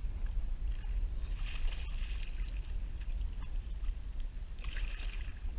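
Water lapping and splashing around a kayak's hull, in two short spells, over a steady low rumble, with a couple of faint clicks.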